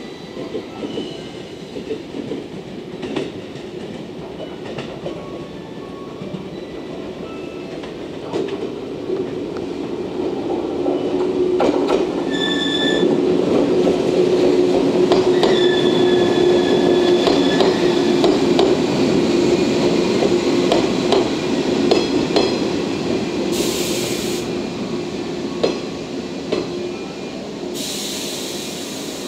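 JNR 115 series three-car electric train rolling in and slowing to a stop: wheels clicking over rail joints, the noise growing as it passes close, with brief high brake or wheel squeals. Near the end come two short hisses of air, typical of the air brakes as it halts.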